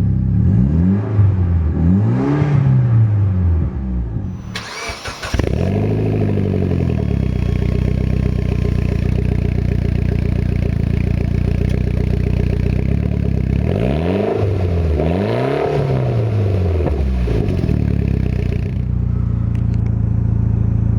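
2008 Mitsubishi Lancer Evolution GSR's turbocharged 2.0-litre four-cylinder engine idling and being blipped, the revs rising and falling in two pairs, the first near the start and the second about two-thirds of the way through. A brief hiss comes about five seconds in.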